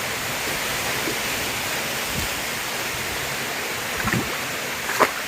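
Waterfall rushing, a steady, even roar of falling water, with a brief sharp sound near the end.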